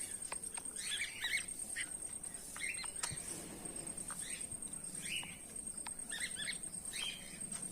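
Goldfinch chirping and twittering in five or six short bursts, with a few faint clicks between them. A steady, thin, high-pitched whine runs underneath.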